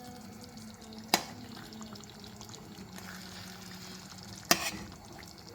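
Tamarind fish curry bubbling in the pot over high heat, with two sharp clinks, one about a second in and a louder one near the end.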